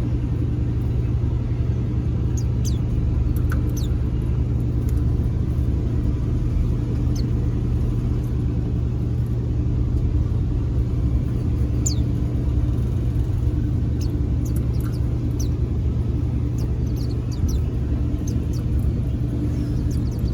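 A steady low hum throughout, with short, thin, high chirps of white-eyes scattered through it, each note falling quickly in pitch.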